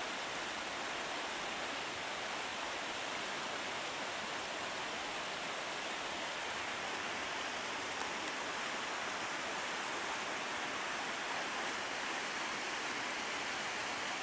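Steady, even rush of water from a creek falling over a waterfall below the trail.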